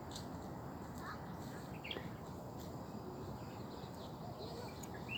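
Birds giving short, scattered chirps and calls over steady low background noise.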